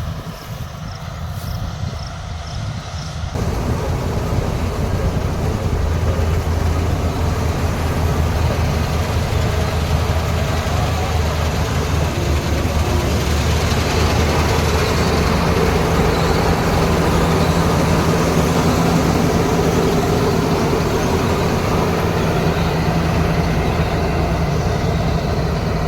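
Kartar 4000 combine harvester running steadily with a continuous engine and machinery drone; it grows louder and fuller about three and a half seconds in, and a higher hum joins about halfway through.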